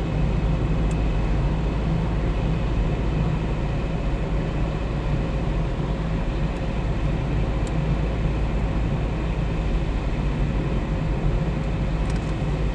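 A car driving on the road, heard from inside the cabin: a steady drone of engine and tyre noise.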